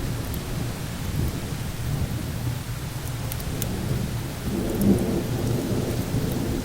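Low rumbling thunder over a steady hiss of rain and wind, with the rumble swelling briefly about two-thirds of the way through. A few faint sharp crackles sound over it.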